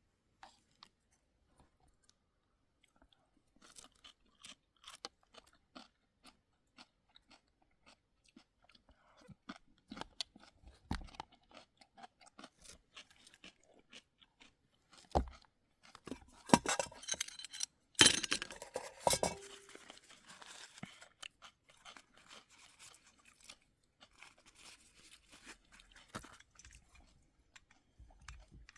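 Scattered crunching and clicking, irregular and fairly faint, with a louder run of crunches a little past the middle.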